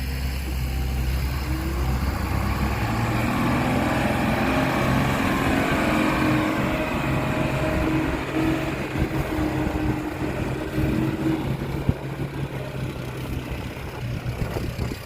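Heavy diesel engine of earthmoving machinery running under load, its pitch rising a couple of seconds in and holding, then turning rougher and uneven with rattling through the second half.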